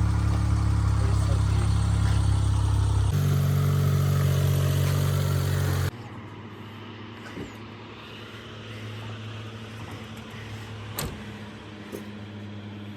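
Heavy truck engine running steadily and loudly. It changes abruptly about three seconds in and cuts off near the six-second mark, leaving a quieter steady hum with a sharp click near the end.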